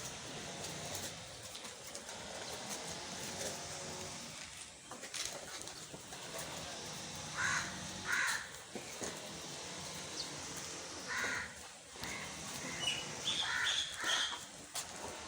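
Birds calling outdoors: a handful of short, separate calls spaced a few seconds apart over a steady faint background noise.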